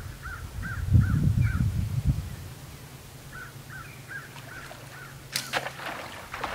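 A bird calls in two quick runs of short rising-and-falling notes, about four a second. A loud low rumble about a second in is the loudest sound. About five seconds in comes a sharp snap with a brief crackle: a bowfishing bow being shot and the arrow striking the water.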